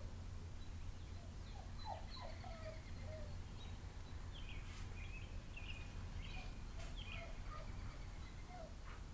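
Faint short animal calls, scattered high chirps and squeaks, over a steady low hum.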